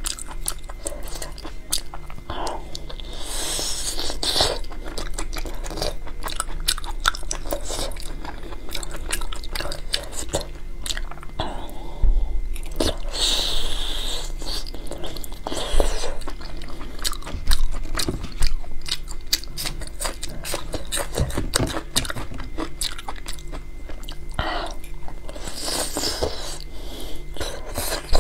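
Close-miked chewing and biting of soft, braised large intestine: wet mouth clicks and chews throughout, with three louder stretches of about a second each, near the start, the middle and the end.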